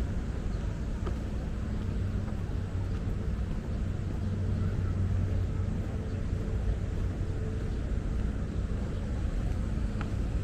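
Steady low rumble of city traffic and urban outdoor ambience, with a faint tick or two.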